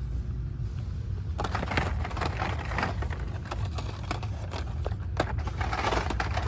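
Store ambience: a steady low rumble, with scattered clicks and rustles starting about a second and a half in.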